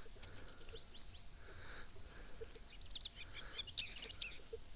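Small songbirds chirping, a few short rising calls about a second in and a rapid run of quick chirps later, over quiet forest background.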